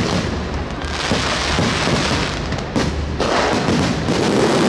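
Fireworks display: aerial shells bursting in quick succession, with overlapping bangs over a continuous rush of noise and one sharp bang a little before three seconds in.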